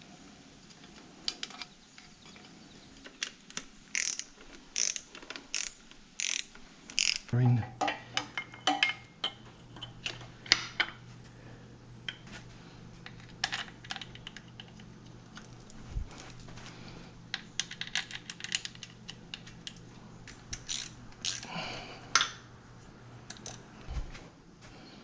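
Hand ratchet wrench being worked in short strokes, each return stroke giving a quick burst of clicks from the pawl, as bolts are run down on the engine. The strokes come about every second at first, then in irregular groups.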